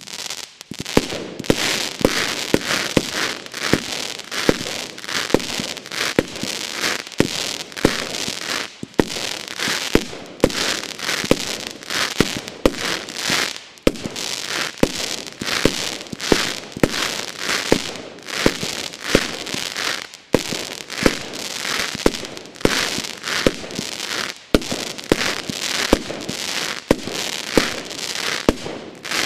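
A category F2 firework battery (cake) firing off its shots in quick succession: sharp launch reports several times a second with crackling bursts between, which stop suddenly at the end.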